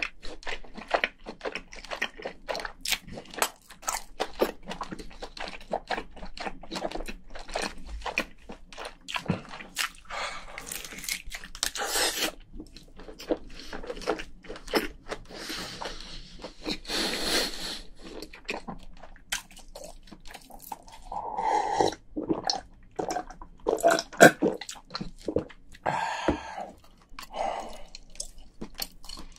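Close-miked wet chewing and mouth smacks of a person eating cooked king crayfish meat: a dense run of sharp clicks, with a few longer noisy stretches.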